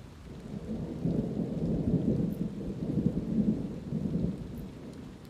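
A low rolling rumble of thunder swells about a second in and fades toward the end, over a faint hiss of light rain.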